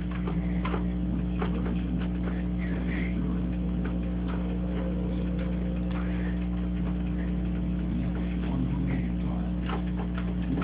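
A dog hiccuping: short, sharp clicks at irregular spacing, over a steady low hum.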